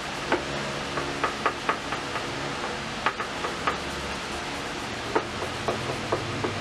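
About a dozen light clicks and taps, irregularly spaced, as small objects are handled and set down by hand, over a steady fan-like hum.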